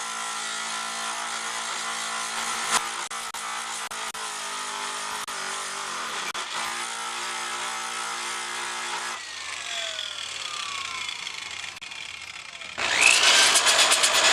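Electric grinder running steadily as it grinds the steel bike frame smooth where the pump brackets were cut off, then switched off about nine seconds in and winding down with a falling whine. Near the end a power tool spins up with a rising whine and runs louder.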